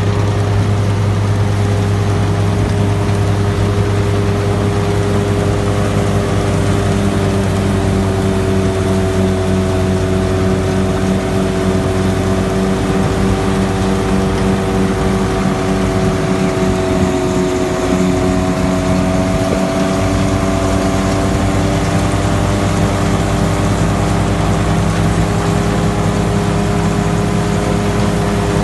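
ACE DI 65 tractor's diesel engine running steadily under load while pulling a ripper. Its pitch sags slightly about halfway through, then recovers.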